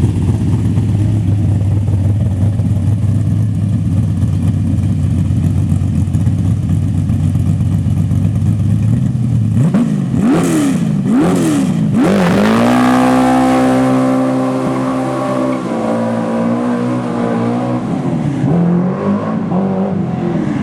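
Carbureted small-block Chevy V8 in a 1969 Camaro with a four-speed manual, running steadily, then accelerating hard: the revs climb and drop sharply three times in quick upshifts, with bursts of rear-tire chirp at the shifts, hold a high pull for several seconds, then fall away as the driver lifts off.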